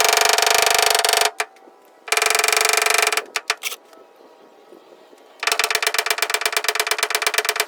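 A small motorised tool buzzing in three bursts, with a few sharp clicks between them; the last burst pulses rapidly and evenly.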